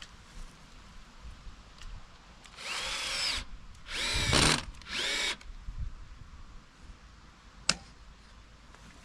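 Power drill run in three short bursts, its motor whine speeding up and slowing down each time, the second burst the loudest. A single sharp click follows a couple of seconds later.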